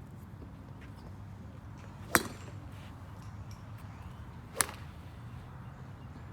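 Two golf clubs striking balls, two sharp cracks about two and a half seconds apart.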